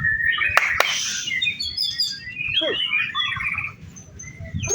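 White-rumped shama (murai batu) singing a rapid, varied song of whistles and trills, with two sharp clicks about half a second in. The song pauses briefly near the end.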